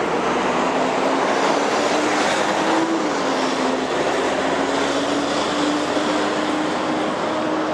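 Steady loud vehicle noise, a rushing sound with a faint engine hum that drifts slightly up and down in pitch.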